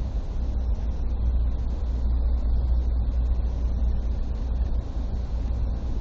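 Steady low rumble of a moving Amtrak passenger train, heard from inside the coach, with no distinct knocks or horn.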